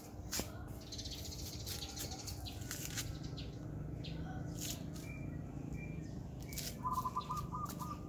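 Birds chirping and calling in garden trees, with short high chirps throughout and a quick run of repeated notes near the end, over a low steady background rumble.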